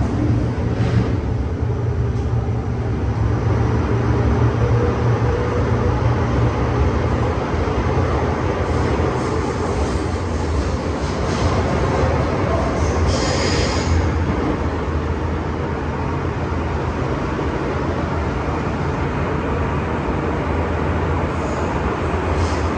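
MTR M-Train electric multiple unit running on the Tseung Kwan O Line, heard from inside the car as a steady rumble with a low hum. A brief high-pitched sound rises over it about thirteen seconds in.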